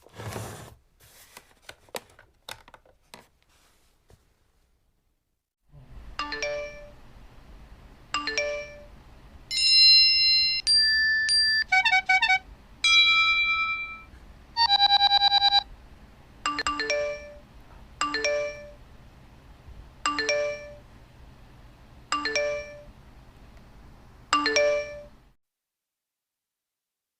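A few sharp clicks, then a series of electronic phone-style ringtones and chimes. They start as a ring repeating about every two seconds over a low hum. In the middle come several different beeping and warbling tone patterns, the loudest part. Then the two-second ring returns five more times before stopping abruptly.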